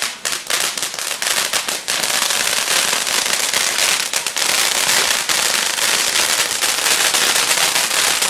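Fireworks crackling: a run of separate sharp cracks, then from about two seconds in a dense, continuous crackle.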